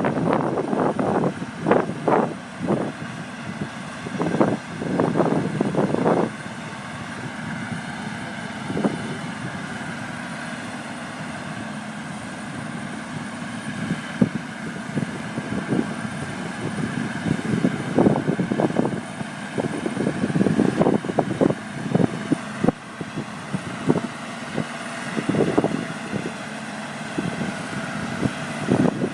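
Tractor engine running steadily, overlaid by irregular loud noisy bursts in the first few seconds and again through the second half.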